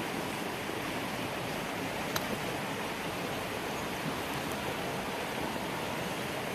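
Swiftly running creek water rushing steadily, with one sharp click about two seconds in.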